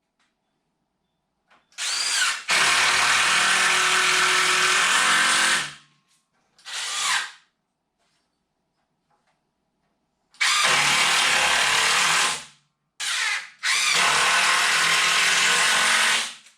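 Handheld power tool run in bursts: a short trigger blip followed by a longer run of two to three seconds, three times over, each run starting and stopping sharply.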